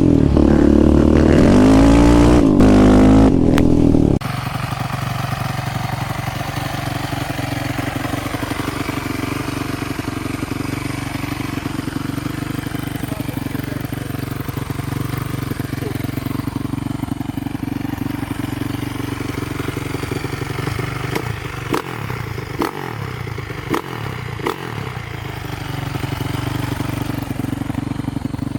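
Quad or dirt bike engine revving up and down close by, then cutting about four seconds in to a quieter engine running steadily at constant speed. A few short knocks come near the end.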